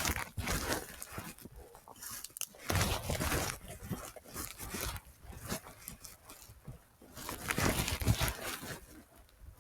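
Footsteps crunching and rustling over rough ground in an irregular stride, picked up close by a carried recorder.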